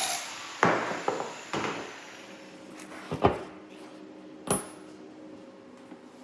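A power tool cuts off at the start, followed by a handful of sharp metallic clanks and knocks with brief ringing as steel pieces are handled in the workshop. The loudest clank is about three seconds in, and a faint steady hum is left underneath.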